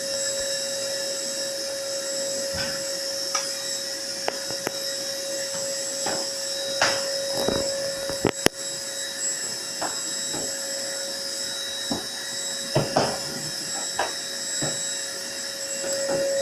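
A steady motor whine and hum with a fixed tone, with scattered light knocks and clicks over it.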